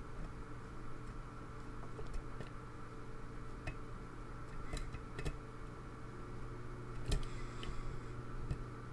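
Light, irregular metallic clicks and ticks of a pick working the pins of a pin-tumbler challenge lock held under tension, over a steady low hum.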